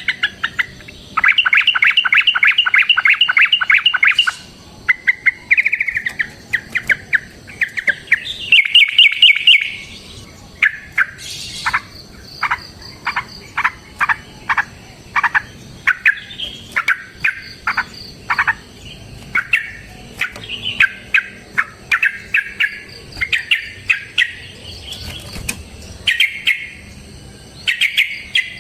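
Yellow-vented bulbul (trucukan) song: fast chattering rattles starting about a second in and again near nine seconds, then a long run of short, sharp chirps at about two a second.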